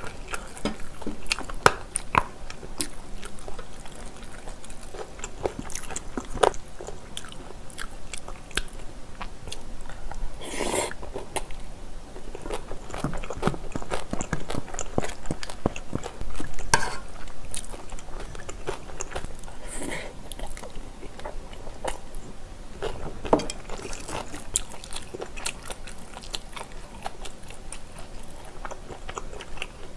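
Close-miked chewing and biting of mouthfuls of spicy bulgogi with glass noodles and rice, full of small wet mouth clicks, with a few louder, longer chewing noises along the way.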